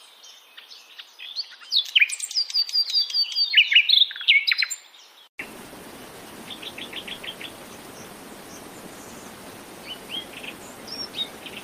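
Bird chirping: a dense run of quick, high chirps and whistles for about five seconds. After a sudden cut there is a steady background hiss with a few short rapid chirp series.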